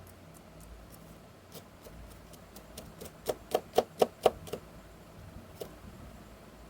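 A run of sharp clicks or snaps, sparse at first, then a quick burst of about four a second in the middle, with one last click a second later.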